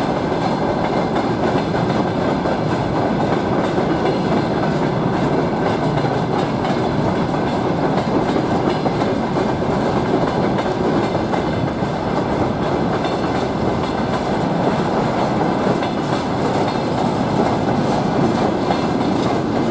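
Freight train wagons rolling past, with a steady noise of steel wheels on the rails.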